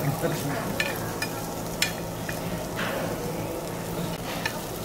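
Corn cheese sizzling in a hot black metal pan over a gas burner, with a metal spoon stirring and scraping it, giving several sharp clicks against the pan.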